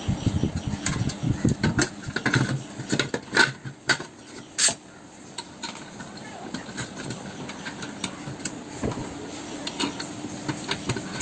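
Hard parts being handled and fitted by hand, with irregular clicks and knocks, busiest in the first few seconds.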